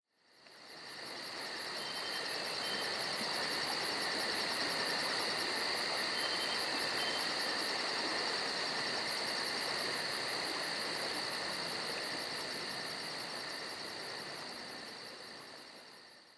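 Crickets chirping in a steady high trill with fast, even pulsing, fading in at the start and fading out near the end.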